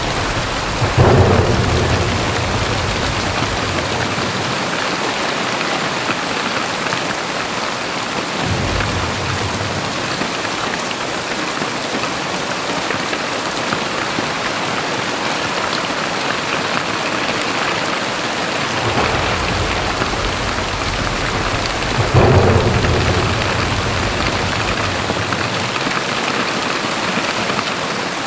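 Very heavy rain pouring steadily, with rumbles of thunder: two louder claps, one about a second in and another about twenty seconds later.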